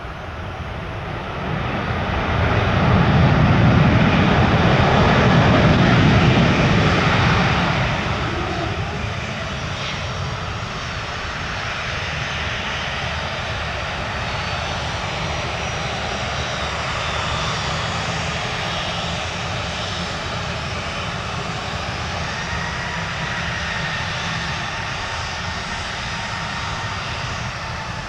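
Aircraft engines of a passing airplane. The noise swells to its loudest a few seconds in, then eases to a steady rumble with a faint whine that drifts in pitch.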